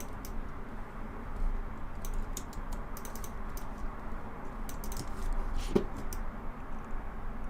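Computer keyboard keys clicking in scattered, irregular taps over a steady background hum.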